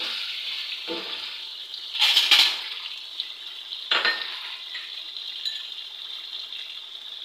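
Beef and tomato masala sizzling in a karahi, a steady frying hiss. A few short clattering noises break in about one, two and four seconds in, the loudest around two seconds.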